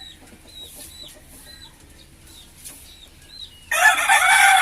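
Chicks peeping faintly in short, repeated high chirps, then a bantam rooster crows loudly near the end, one crow of about a second and a half.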